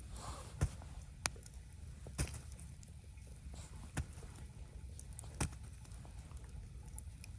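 Five sharp snaps or knocks at irregular intervals over a steady low rumble.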